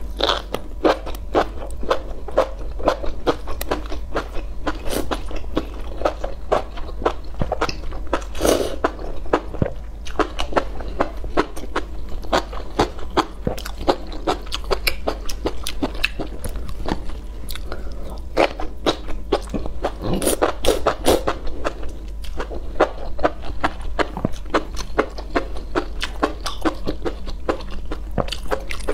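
Close-miked eating sounds: a person biting and chewing food, with a quick run of sharp mouth clicks several times a second.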